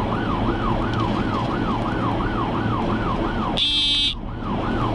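Police patrol car siren wailing in a fast yelp, rising and falling about three times a second over steady low vehicle hum during a high-speed pursuit. Near the end a half-second buzzing tone briefly cuts in over it.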